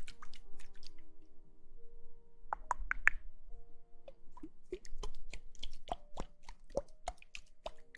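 A string of quick, wet plopping clicks, some rising in pitch, sparse at first and then coming several a second in the second half, over faint soft background music.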